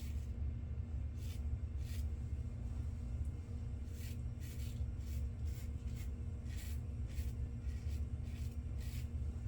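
Double-edge safety razor scraping through lathered stubble on an against-the-grain pass: a dozen or so short, separate scratchy strokes, irregularly spaced, over a steady low hum.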